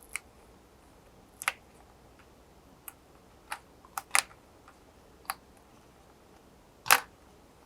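Scattered sharp plastic clicks and taps, about eight in all with the loudest near the end, as the display bezel (B part) of an LG Gram 14Z90RS laptop is worked loose and its plastic hooks unlatch.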